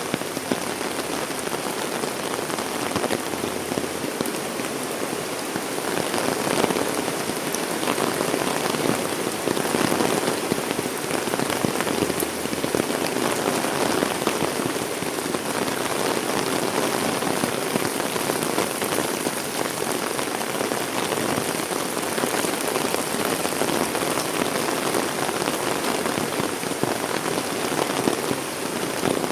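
Heavy rain falling steadily, a dense, even hiss of drops hitting the ground and surfaces around.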